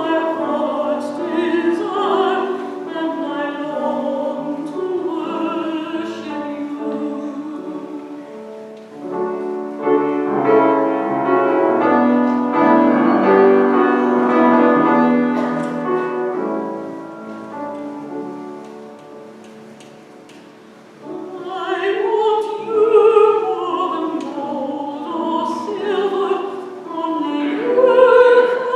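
A woman singing a solo hymn with piano accompaniment. Partway through, the voice drops out for an instrumental interlude that fades away, and then the singing comes back.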